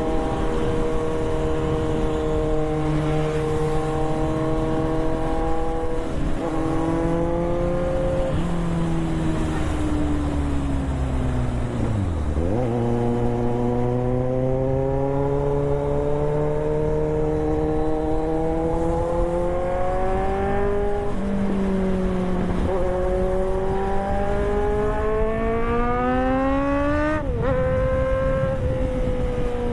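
Sport motorcycle engine under way, its pitch climbing steadily and then dropping sharply at each gear change, about six times, with steady wind rush.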